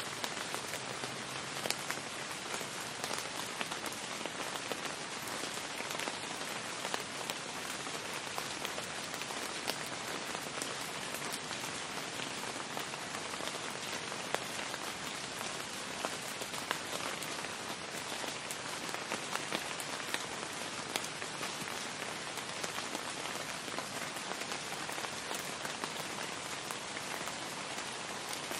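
Steady rain falling on a street, an even hiss of rainfall with many small drop ticks scattered through it.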